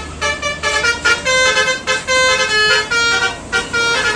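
Multi-tone 'telolet' bus horn (Basuri horn) playing a quick tune of short stepped notes, about three to four a second.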